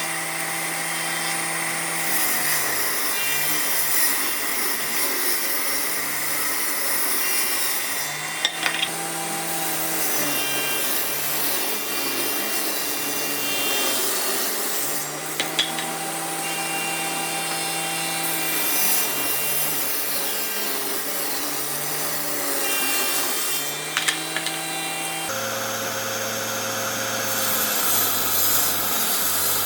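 Electric power tool working wood, its motor pitch sagging and recovering every several seconds as it bites into the wood, with a few sharp clicks. The sound changes abruptly near the end.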